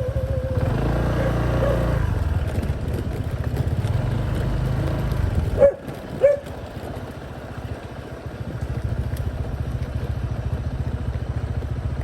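Small motorcycle engine running steadily while riding. About six seconds in come two short, loud, high sounds half a second apart, after which the engine runs quieter and then builds again.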